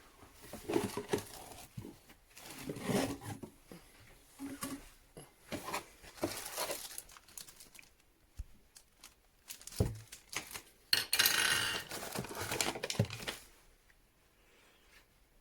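Irregular crinkling, rustling and tearing of packaging being handled, with a few sharp knocks of hard parts. A longer, louder rustle comes about two thirds of the way through.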